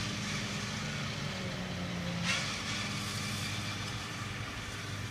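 Tractor engine running steadily with a low hum, with a brief swell in noise about two seconds in.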